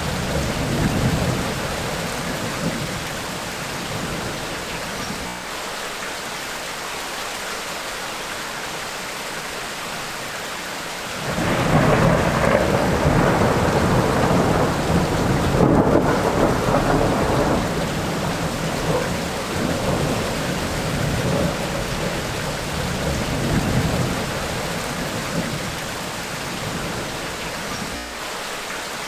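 Steady rain of a tropical rainstorm with rolling thunder. A loud rumble of thunder comes in suddenly about a third of the way in, lasts several seconds, then dies away in weaker rumbles.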